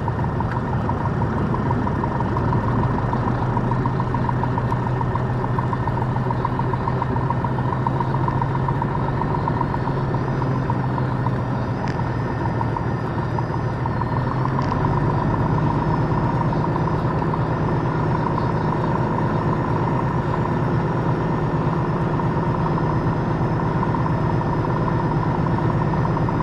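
Piper Comanche 250's six-cylinder Lycoming O-540 engine running steadily at low power, its pitch stepping up slightly about fifteen seconds in.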